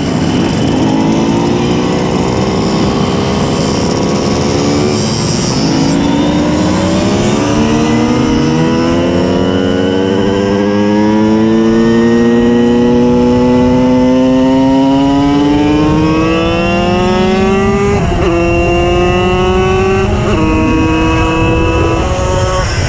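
Simson S51 moped with a tuned 90 cc reed-valve two-stroke engine, under way. Its pitch climbs slowly as it accelerates, with a sudden drop at each gear change, about five and eighteen seconds in, and then runs at a steadier pitch near the end.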